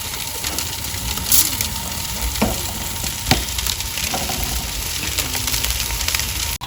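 Fish sizzling as it cooks: a steady frying hiss broken by a few sharp pops, about one a second in the first half.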